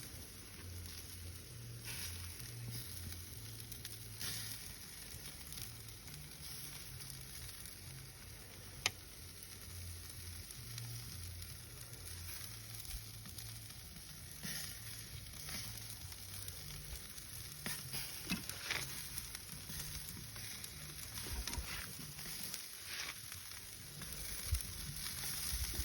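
Food sizzling on a hot grill, a steady hiss broken by sharp pops and crackles, a few of them louder around the middle and toward the end.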